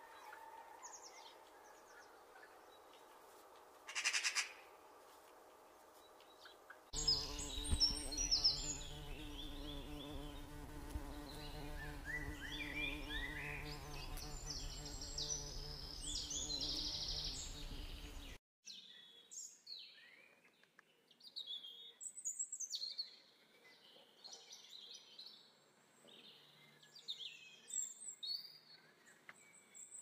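Birds calling and chirping, in three abruptly joined stretches. The middle stretch is the loudest: many quick high chirps over a steady low hum. The last stretch has scattered chirps and short sweeping calls.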